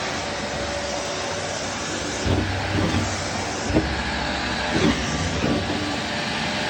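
Vacuum cleaner running with a steady noise, with several low bumps and knocks from about two seconds in.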